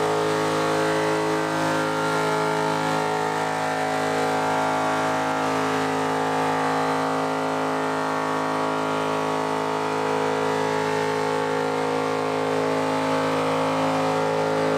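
Car engine held at steady high revs, one unchanging pitch, over a hiss of noise.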